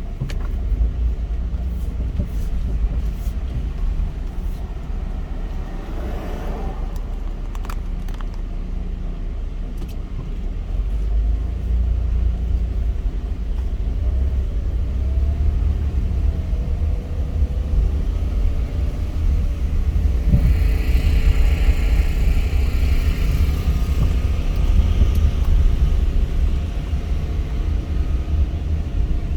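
A car driving: steady low road and engine rumble that grows louder about eleven seconds in, with a brief rush of hiss about twenty seconds in.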